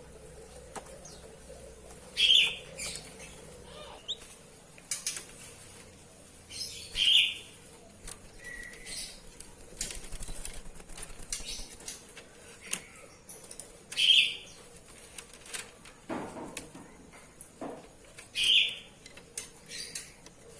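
An Oriental magpie-robin (kacer) bathing, flapping and splashing its wings in the water in short loud bursts about every four to five seconds, with short sharp chirps and clicks in between.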